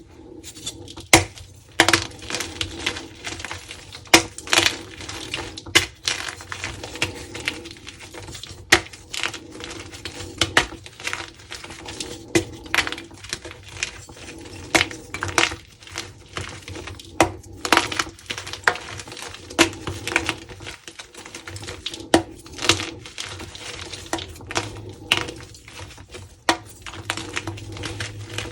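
Dyed crunchy gym chalk being crushed and crumbled, a continuous run of irregular sharp crunches and crackling snaps, several a second.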